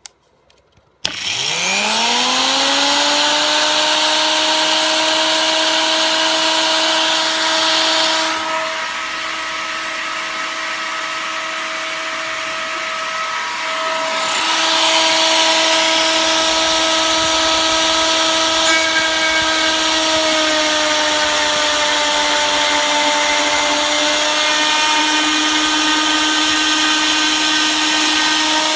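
Die grinder used as a CNC spindle starting up about a second in, its whine rising quickly to full speed, then running steadily while a 3 mm two-flute cutter mills the workpiece. The rough cutting noise over the whine eases for several seconds midway, then returns.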